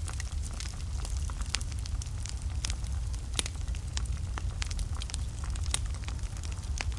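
Wood fire burning in a fireplace: a steady low rumble of the flames with irregular crackles and sharp pops from the burning logs, a few louder snaps among them.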